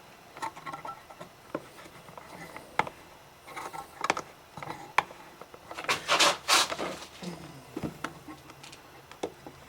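Scattered small clicks and taps of handling a PVC workpiece and tools on a bench, with two short scraping strokes about six seconds in, sandpaper rubbing on the PVC to smooth out a divot.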